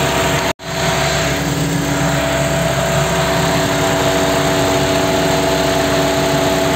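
Chevrolet Pointer's engine running steadily at idle, with the sound cutting out for a split second about half a second in.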